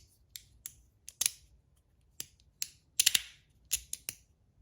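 3D-printed magnetic fidget slider being slid back and forth, its plates snapping into place with light, sharp clicks, about nine at uneven spacing, the loudest pair about three seconds in.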